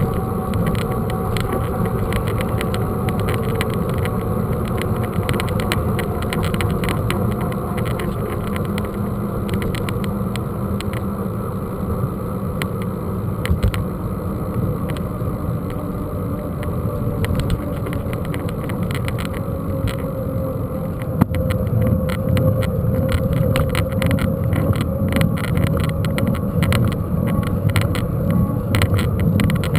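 Mountain bike rolling over a rough dirt trail, heard from a camera mounted on the bike or rider: steady wind and tyre rumble with constant fine rattling. It gets a little louder about two-thirds of the way through.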